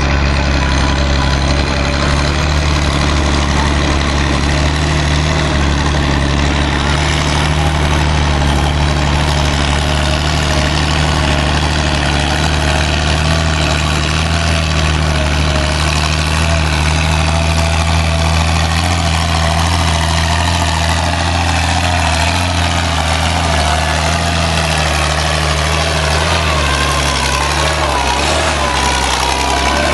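Antique tractor engine running at a steady speed, a deep low hum that shifts slightly near the end.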